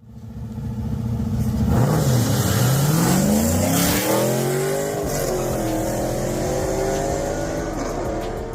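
Car engine idling and then revving up. The pitch climbs from about two seconds in, dips briefly around five seconds, then holds a raised speed and eases off near the end.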